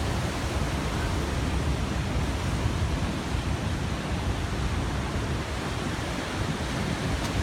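Ocean surf: a steady wash of breaking waves with a fluttering low rumble.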